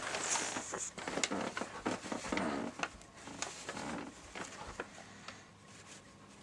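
Rustling, shuffling and clicking of someone moving about and handling things, with scattered sharper knocks, busiest in the first few seconds and dying down towards the end.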